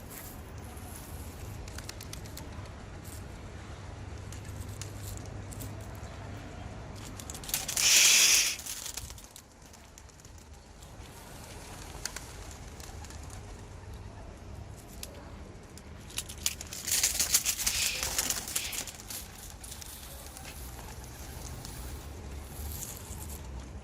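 Young homing pigeons cooing. There are two loud flurries of flapping wings: a short one about eight seconds in, and a longer one around seventeen to nineteen seconds.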